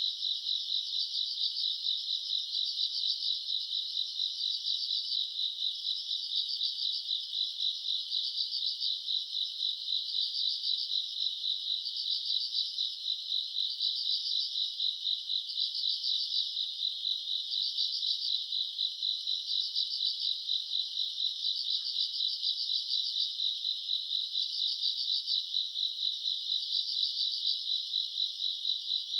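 Summer-night chorus of grass insects such as crickets, a dense, high-pitched, fast trilling that swells louder about every two seconds.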